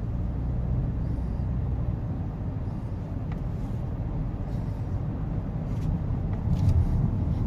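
Steady low road and engine rumble heard inside a moving car's cabin, with a few faint clicks about six to seven seconds in.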